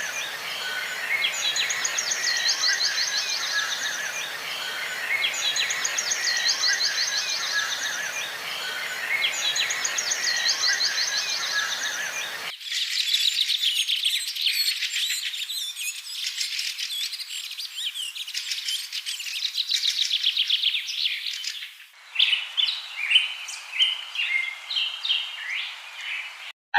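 Wild birds singing and chirping, in three spliced recordings. First, one bird repeats a song ending in a fast trill about every four seconds over other birds' calls. About twelve seconds in, the sound cuts to dense continuous chirping, and near the end it cuts to scattered separate calls.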